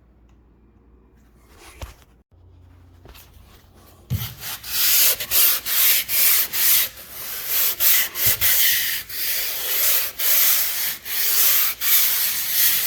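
Sanding dried drywall topping compound on a ceiling patch, starting about four seconds in with steady back-and-forth strokes, about two a second.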